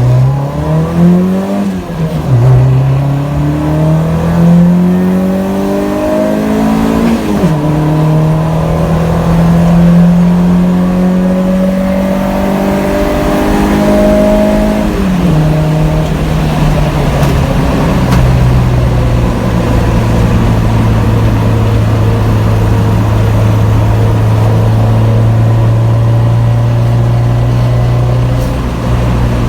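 1992 Honda Civic hatchback with an HKS Hi-Power exhaust accelerating hard. The engine note rises and drops sharply at three upshifts, then settles into a steady cruise.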